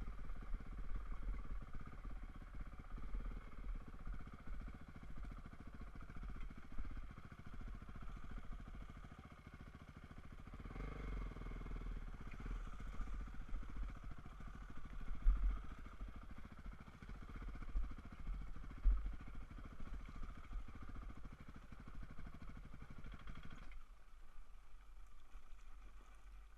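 Dirt bike engine running while riding, with an uneven low rumble underneath. Near the end the low rumble drops away abruptly.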